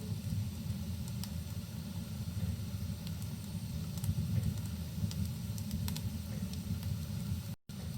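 Rain and a crackling wood fire: a steady low rumble with a faint hiss, scattered with sharp crackles and pops. The sound cuts out for a split second near the end.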